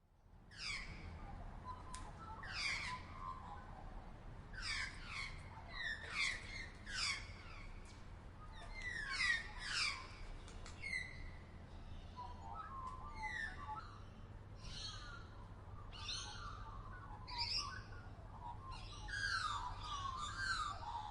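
Birds calling in forest: many short calls, each sweeping down in pitch, repeated throughout over a low, steady background rumble.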